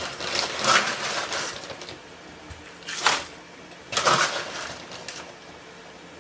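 Kitchen food-prep handling noises: three short rustling, scraping sounds about one, three and four seconds in, as ingredients go into a chicken freezer bag.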